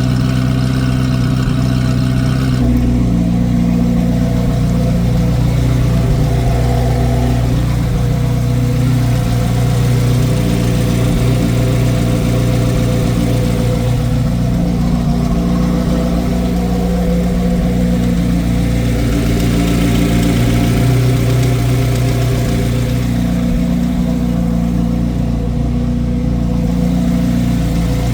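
A 2024 Corvette Z06's LT6 flat-plane-crank V8 idling steadily through a basically straight-piped exhaust with its exhaust valves open.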